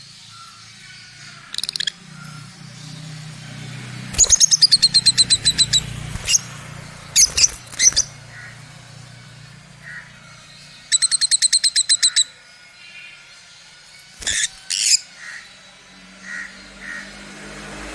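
Lovebirds chirping: two fast runs of high, rapidly repeated chirps, about four and eleven seconds in, with sharp single calls between and after them, over a faint low hum.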